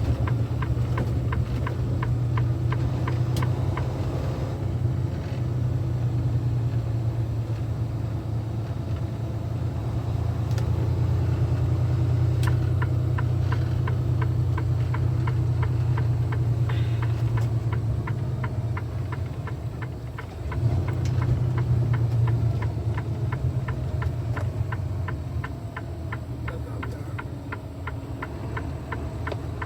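Semi-truck's diesel engine running at low speed, heard from inside the cab as a steady low rumble, with a light regular ticking about three times a second. The engine sound dips briefly about two-thirds of the way through, then comes back up.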